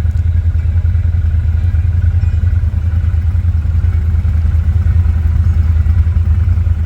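ATV engine running steadily, a loud, even low drone with no change in pace.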